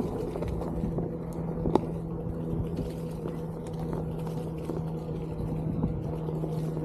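Onewheel GT's hub motor humming at a steady pitch while riding at constant speed, over the rumble of the tyre on the trail, with one sharp knock about a second and three-quarters in.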